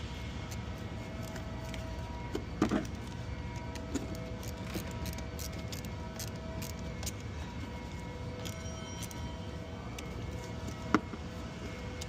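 Steady low hum of the work bay with a few sharp metallic clicks and clinks, the loudest a couple of seconds in and again near the end, as hand tools fasten the battery ground cable terminal.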